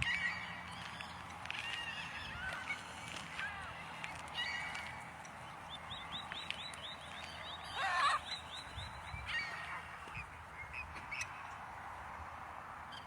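A flock of waterbirds calling, many short honking calls overlapping. About halfway through comes a quick run of short notes, followed by a loud call about eight seconds in.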